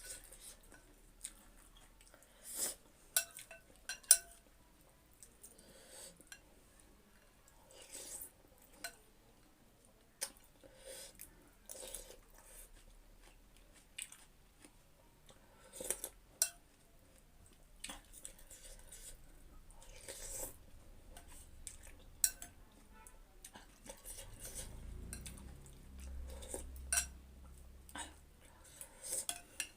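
Eating a bowl of chicken noodle soup close to the microphone: chewing, with irregular sharp clinks of cutlery against the bowl. A low rumble comes in near the end.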